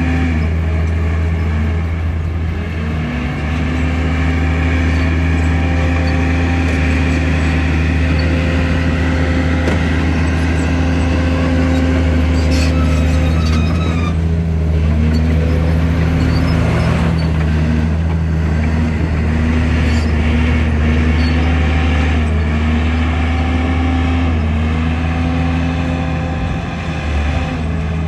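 Heavy diesel engine of earthmoving machinery running steadily, its pitch dipping and recovering now and then as it takes load. There are a few brief clatters about halfway through.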